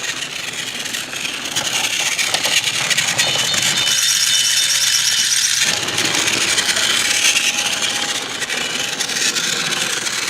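Battery-powered TrackMaster toy engine, Hiro, running along plastic track: a steady small-motor whir with a dense rattle and clatter from the wheels and track pieces. The lower part of the sound thins out briefly a little before the middle.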